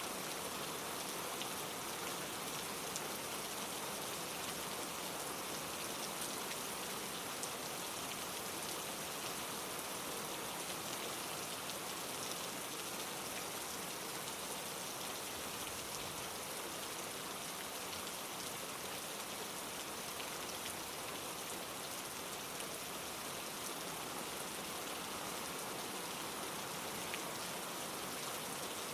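Steady rain falling: a continuous, even hiss with faint scattered drop ticks.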